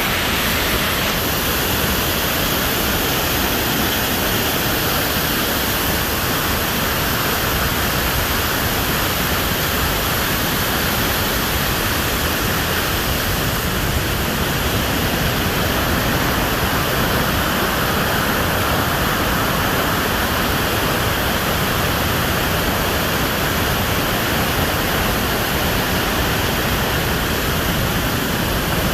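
Waterfall rushing in full flow: a loud, steady roar of falling water with no change.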